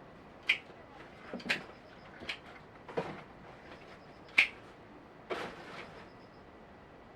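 Irregular sharp knocks and taps, about six in seven seconds, the loudest about four and a half seconds in, over a steady faint hiss.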